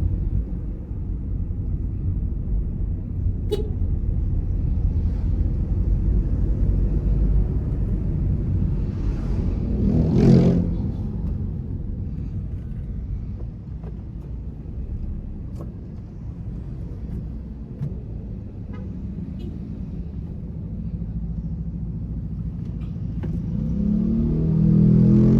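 Car driving on the road: a steady low rumble of engine and tyre noise, with a louder swell of noise that rises and fades about ten seconds in. A pitched sound with gliding tones starts near the end.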